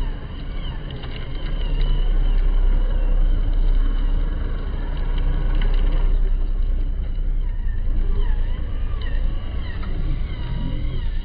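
Truck engines running: a loud, steady low drone with a wavering higher whine over it.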